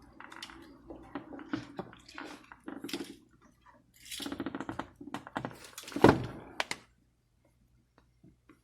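Hand work on car door parts: a run of clicks, knocks and short scraping rattles, with a loud thunk about six seconds in.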